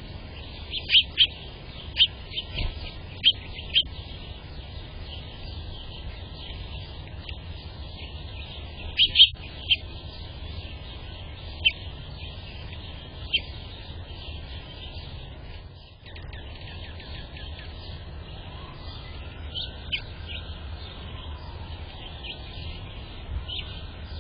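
Small songbirds giving short, high chirps scattered irregularly, with a louder cluster of chirps about nine seconds in, over a steady low background hum.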